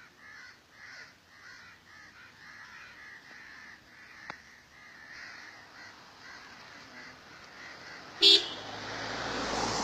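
Birds calling over and over, then a short sharp clank about eight seconds in, followed by the growing noise of an approaching vehicle.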